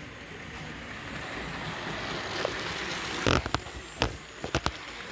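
Model train running, its noise building over a few seconds, then a run of sharp, irregular clicks about three seconds in.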